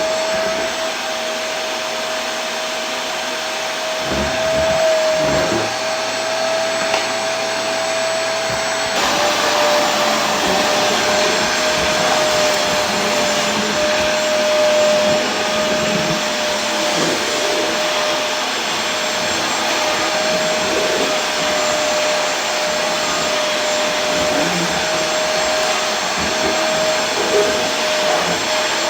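Vacuum cleaner running continuously: a steady rushing noise with a constant motor whine, the whine dropping slightly in pitch about nine seconds in.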